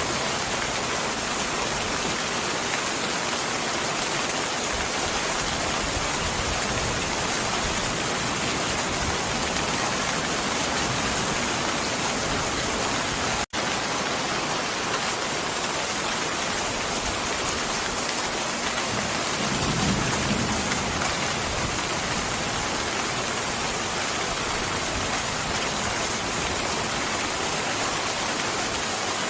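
Steady rain, an even hiss without letup. It cuts out for an instant about halfway through, and a brief low rumble swells up about two-thirds of the way in.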